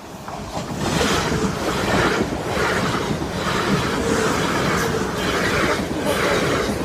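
Class 450 electric multiple unit passing through the station, its wheels running loudly on the rails. The noise builds over the first second and stays up, with repeated surges of wheel-and-rail clatter.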